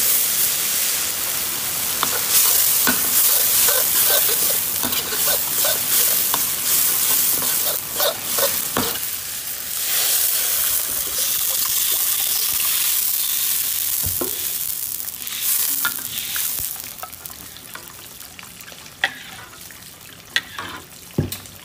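Spice paste of chilli, garlic and shallot sizzling loudly in hot oil in a wok, stirred and scraped with a metal spatula that clicks and knocks against the pan. About two-thirds of the way through the sizzle dies down and the spatula stirs through broth, with a few sharp knocks on the wok.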